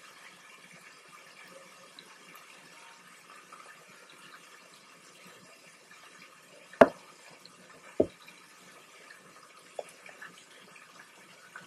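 Breaded chopped steak frying in oil in a pan, a steady low sizzle. Two sharp knocks land about a second apart, a little past the middle.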